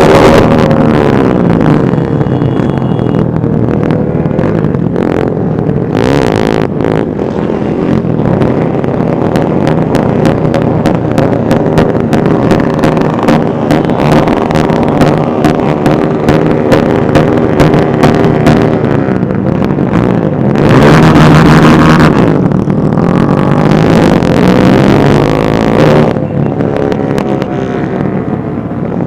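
Many motorcycle engines running together in a slow procession, several revving up and down over one another, with a louder rushing stretch about two-thirds of the way in.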